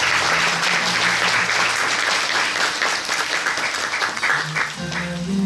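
Theatre audience applauding, the dense clapping thinning to scattered claps near the end, over soft background music.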